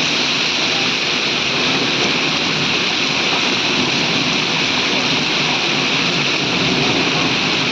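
Heavy rain pouring down with small hailstones falling in it: a loud, dense, even hiss that holds steady throughout.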